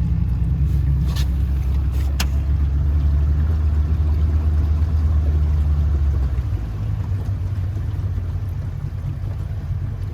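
A boat motor running steadily with a low rumble, easing off about six seconds in.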